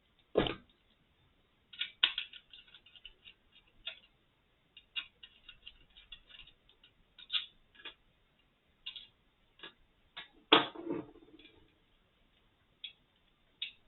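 Small irregular clicks and taps of a sound level meter's stacked circuit boards and plastic casing being handled and worked apart, held together by a board-to-board socket. Two louder knocks stand out, one near the start and one about ten seconds in.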